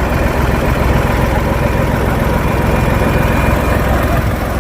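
A large engine idling steadily with a low, even rumble, from the machine that lifts the carcass.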